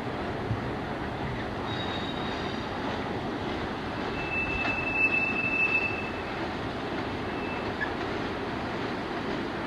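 Freight train rolling on the rails with a steady rumble of wheels, and a high wheel squeal ringing out for about two seconds near the middle.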